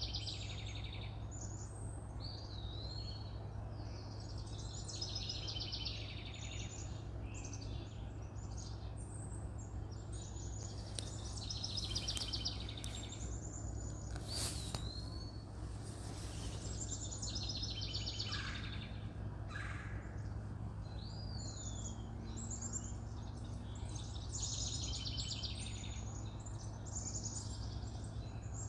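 Wild birds singing and calling outdoors, with fast trills and a few swooping whistles repeating every few seconds, over a steady low background hum.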